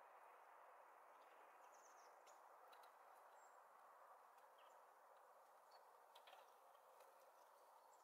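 Near silence: a steady faint hiss with a few faint, short, high chirps from small songbirds and scattered light ticks.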